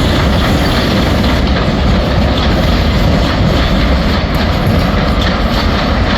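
Class 47 and Class 43 diesel locomotives pulling out together, their engines running loud and steady under load.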